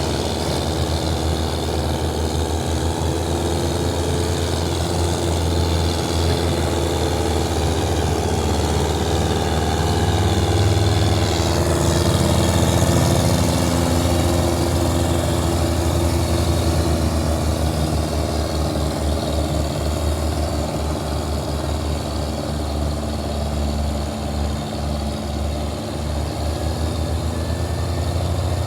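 Tractor's diesel engine running steadily, growing a little louder about ten seconds in before easing back.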